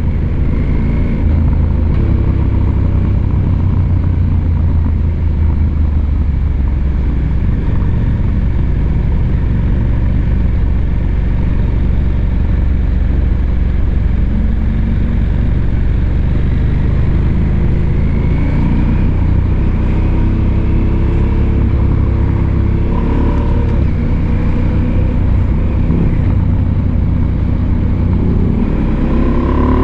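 Husqvarna Norden 901's parallel-twin engine running under way at fairly steady revs, then revving up as the bike accelerates near the end.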